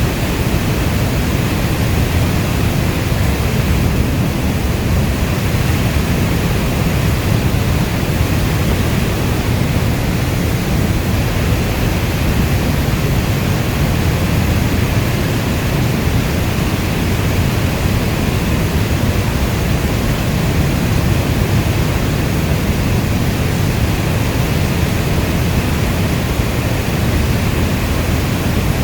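Steady heavy rainfall: a dense, even wash of rain noise, strongest in the low end, with no thunder or single drops standing out.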